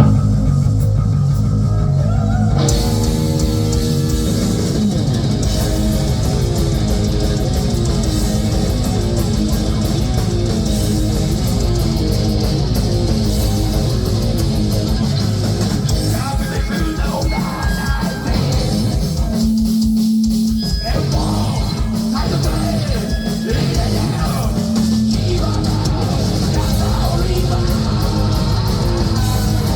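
Heavy metal band playing live: electric guitar riffing over bass and a drum kit. A sparse low opening gives way to the full band with dense drums and cymbals a few seconds in, with a held guitar note breaking the riff near the middle.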